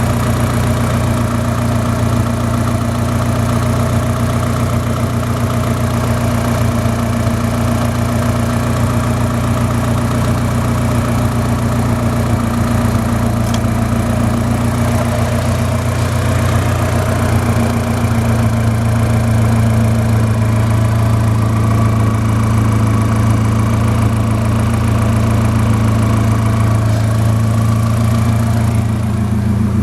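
Mitsubishi Pajero iO's four-cylinder petrol engine running steadily at idle, getting slightly louder a little past halfway.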